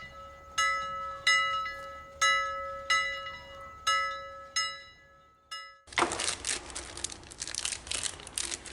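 A bell-like metallic ring struck over and over at the same pitch, about every two-thirds of a second, each ring dying away. It stops about five and a half seconds in, and plastic wrapping starts crinkling and rustling busily about six seconds in.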